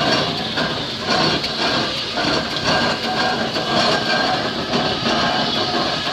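Fowler B6 steam crane engine running, with a rhythmic clatter of knocks over a steady noisy rush.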